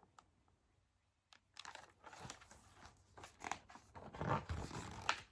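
Faint rustling and crinkling of paper, with a few small clicks, starting about a second and a half in: a picture book's pages being handled and turned.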